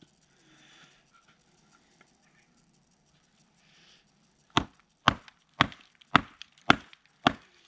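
Six sharp knocks of a knife being hammered into and through a piece of wood, about two a second, beginning about four and a half seconds in: a black military-style knife splitting wood.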